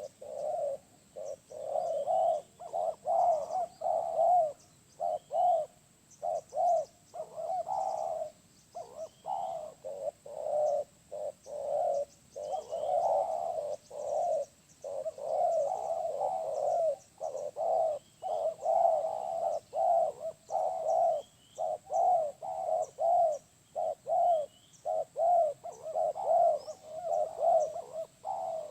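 Spotted doves (tekukur) cooing over and over in short repeated phrases, with faint high chirps from small birds and a thin steady high whine behind.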